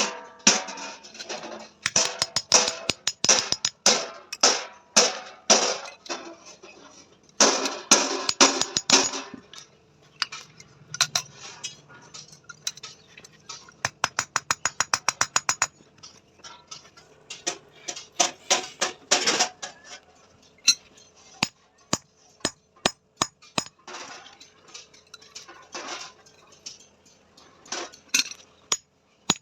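Hammer striking steel, in clusters of rapid blows with sharp metallic rings. Partway through comes a fast, even run of lighter taps, about eight a second.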